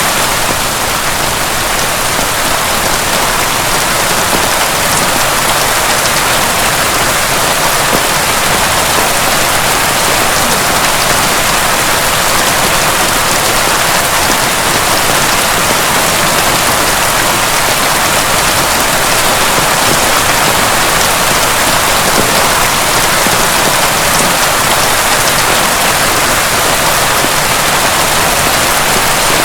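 Heavy rain falling steadily, a dense even hiss of many fine drops pattering, with no thunder.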